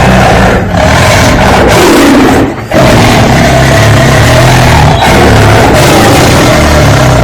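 Lion roaring in long, loud, rasping roars, with a brief break about two and a half seconds in before the next roar.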